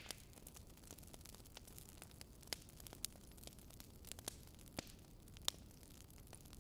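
Campfire crackling: irregular sharp pops and snaps of burning wood over a faint steady hiss, the loudest pop right at the start.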